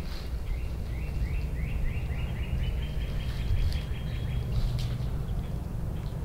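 A bird calling: a quick run of short, rising notes, about five a second, that edges slowly higher in pitch for about four seconds, over a steady low rumble.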